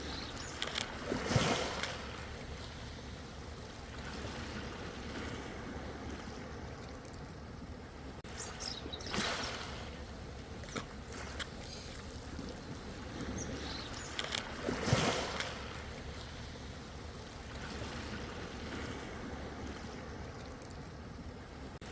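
Ocean water splashing in three sharp surges, several seconds apart, over a steady low wash of sea noise.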